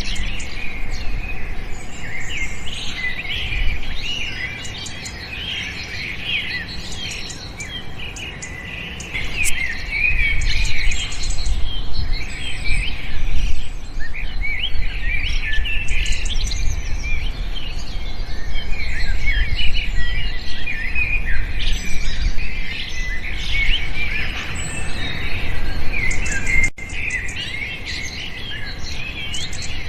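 Many small birds chirping together in a dense chorus of short, high calls. Underneath is a low, steady rumble that grows louder about a third of the way in.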